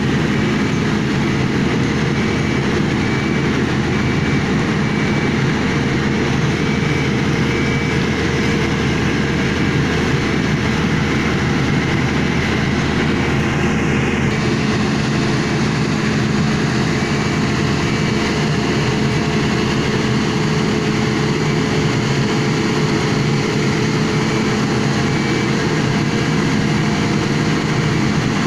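Heavy machinery engine running steadily under load, a constant loud droning hum with steady tones, little change across the stretch.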